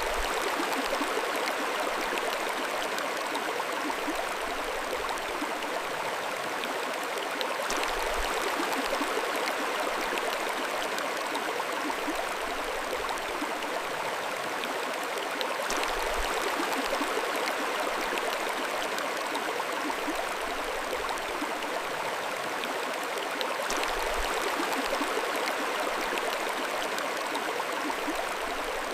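Mountain stream flowing steadily: a continuous rush and babble of water, with a faint click about every eight seconds.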